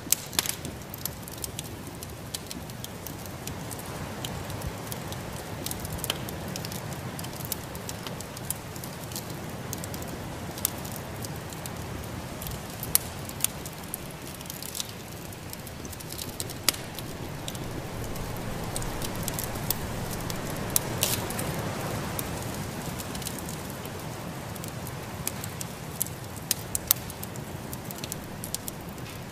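Wood fire in a fireplace crackling, with sharp irregular pops, over a steady rushing of snowstorm wind that swells twice.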